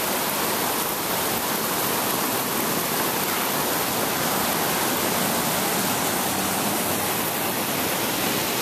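Swollen brook in flood, fast floodwater rushing with a steady, even noise.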